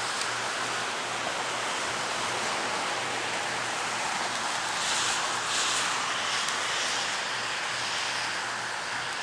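Downed high-voltage power line arcing and burning with a steady roaring hiss that swells and crackles about five seconds in, over a low on-and-off electrical hum from the damaged transformer.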